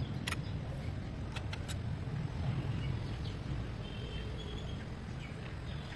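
Royal Enfield Diesel Bullet's single-cylinder diesel engine running steadily, with a few sharp clicks in the first two seconds.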